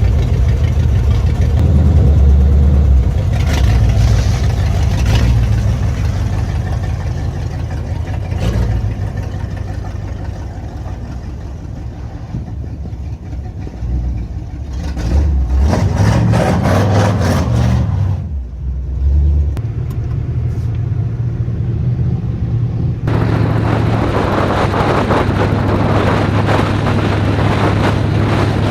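V8 engine of a Chevy S10 pickup running as the truck drives, its ignition timing a little off by the owner's account; the engine note rises in a surge of revs about halfway through. For the last few seconds a louder rushing noise rides over the engine.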